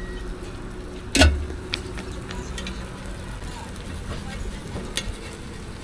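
Food frying on a street-stall griddle, a steady sizzle, with one loud sharp knock about a second in and a few lighter clicks of utensils after it.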